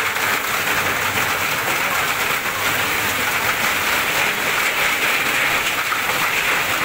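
Heavy rain pouring down onto a flooded street, a steady, dense hiss of rain falling into standing water.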